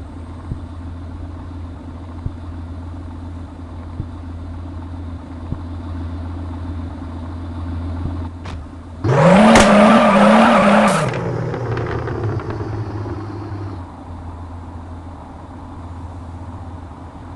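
Mercedes-AMG GT engine idling steadily, then revved hard once about nine seconds in: the pitch climbs, is held with a slight wavering for about two seconds, and drops back to idle.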